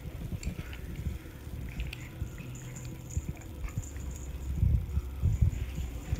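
Small Chihuahua-type dog growling, a low rumbling growl that comes in stretches, mixed with soft low thumps.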